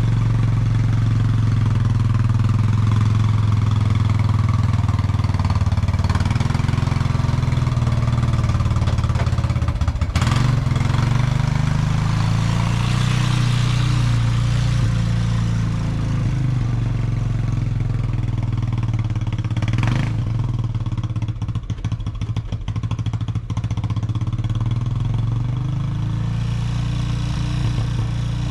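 ATV engine running steadily during snow plowing, its pitch shifting a little as it works. There is a sharp knock about ten seconds in, another about twenty seconds in, and some clatter shortly after.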